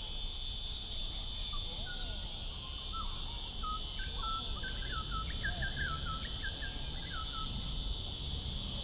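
Steady high insect chorus, like crickets, with a bird calling a run of short, quick falling notes from about a second and a half in until near the end.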